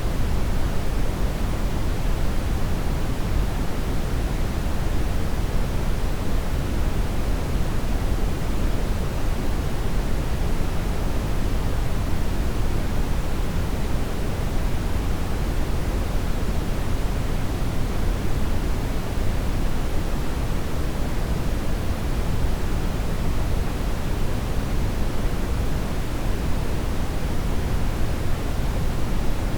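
Steady brown noise: a constant, even rushing hiss weighted heavily to the low end, without any change.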